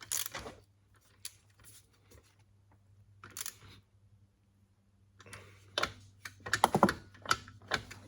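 Small metal parts and hand tools clinking and rattling as they are handled, in scattered bursts and then a busier run of clicks and knocks in the last few seconds, over a faint steady low hum.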